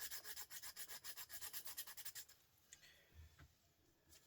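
Hand file scraping quickly back and forth across a small brass rod, several short strokes a second, stopping a little over two seconds in. The filing is a test to expose the bare metal and tell brass from stainless steel.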